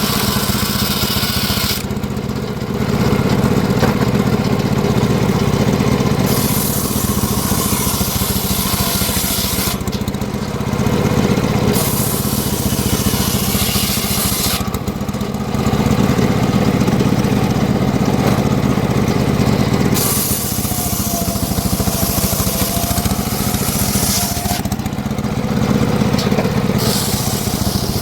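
Homemade engine-driven circular sawmill running steadily while it saws mahogany. The high-pitched cutting noise comes and goes every few seconds.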